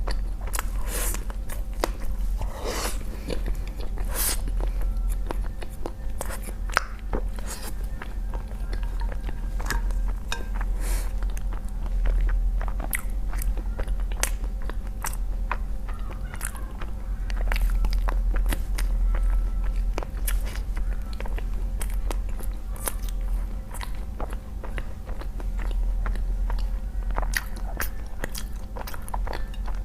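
Close-miked eating of seasoned noodles: slurping and chewing with many small wet clicks and smacks, over a steady low hum.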